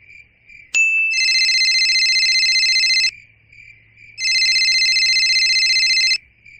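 Electronic telephone-style ringtone: a click and short beep, then two trilling rings of about two seconds each, a second apart.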